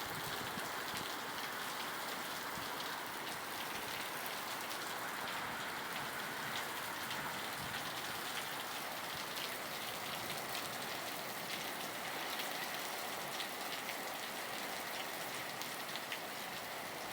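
Rain pouring steadily: a dense, even hiss with many small ticks of drops striking surfaces.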